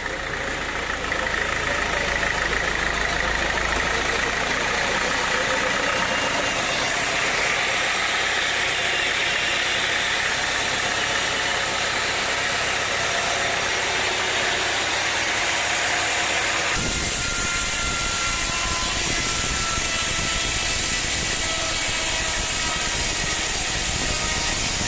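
Sawmill machinery running steadily with an engine drone. The sound changes abruptly about 17 seconds in.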